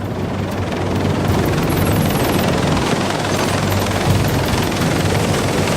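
Sikorsky CH-53K heavy-lift helicopter running loud, a dense rotor chop over the whine of its turbine engines, with music mixed in underneath.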